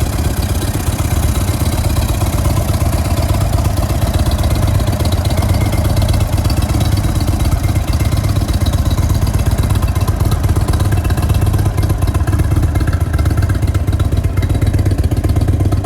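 A 2017 Indian Springfield's 111-cubic-inch V-twin, fitted with an Indian performance exhaust and a high-flow air intake, running steadily at idle.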